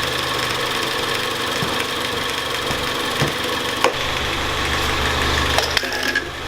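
The 2017 Ford Focus ST's 2.0-litre turbocharged four-cylinder engine idling steadily, with a few light clicks a little past the middle and near the end.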